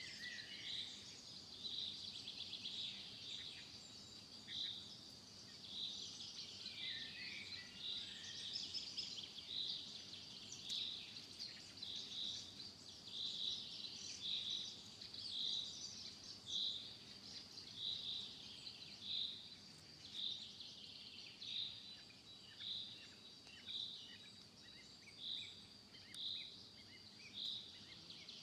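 Faint nature ambience: a steady high insect drone, a short high call repeating a little under once a second, and scattered bird chirps over it.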